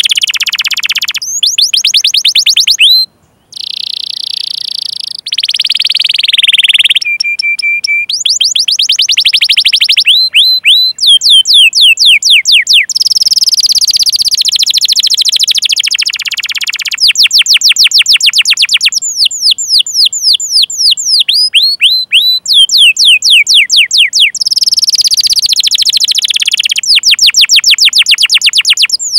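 Canary singing a long, loud song of rapid repeated chirps and rolling trills. It switches from one fast repeated sweeping note to the next every second or two, with a brief break about three seconds in.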